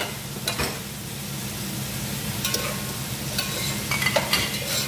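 Chopped vegetables (potato, carrot, green chili) sizzling in a pot on a gas stove over a steady low hum. A metal spoon scrapes and clinks against the pot as it stirs, a few times early on and in a quick cluster in the last second and a half.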